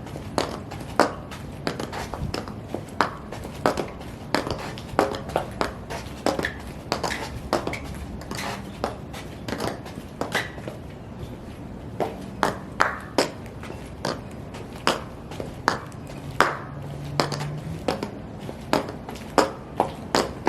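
High-heeled shoes stomping on a hard floor: sharp heel clicks about twice a second, in an uneven rhythm, each with a short ring.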